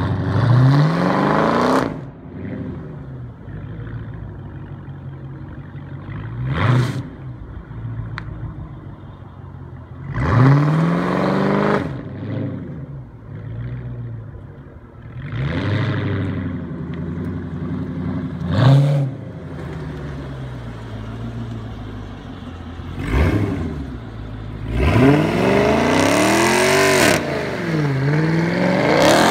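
Supercharged 2014 Dodge Challenger SRT8's 6.4-litre HEMI V8 through a custom Borla exhaust, revved hard in a series of sharp bursts, each climbing in pitch and dropping back between them. Near the end it is held at high revs with squealing tyres in a burnout.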